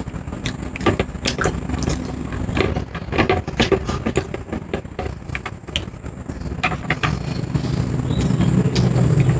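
Close-up eating sounds: irregular short clicks and smacks of chewing and handling food, over a steady low hum that grows louder near the end.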